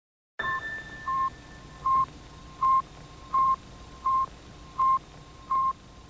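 Eight short electronic beeps of one pitch, evenly spaced about three quarters of a second apart, over a faint steady hiss, like a radio or telemetry signal.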